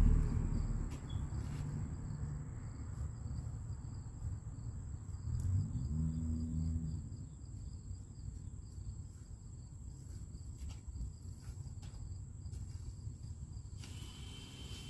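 Insects chirping outdoors in a faint, even, rapid pulse over a low rumble. Near the end a steadier high buzz takes over.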